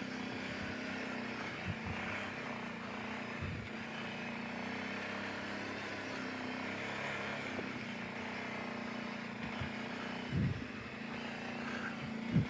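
Kawasaki Brute Force 750 ATV's V-twin engine running steadily at low trail-crawling speed, with a few soft thumps, the loudest about ten seconds in.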